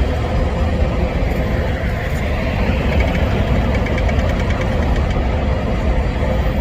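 Freight train with diesel locomotives, a loud, steady heavy rumble of engines and rolling stock.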